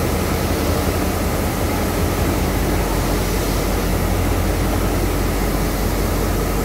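Steady, loud mechanical noise with a constant low hum and hiss from a train standing at the platform: the DT668 steam locomotive and the blue power car beside it.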